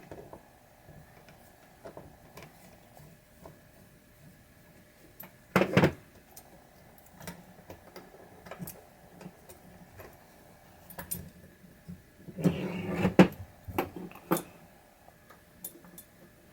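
Sporadic clicks and clatter of small metal pinball parts and switch pieces being handled on a workbench during disassembly, with a sharp double knock about six seconds in and a burst of rattling knocks about twelve seconds in.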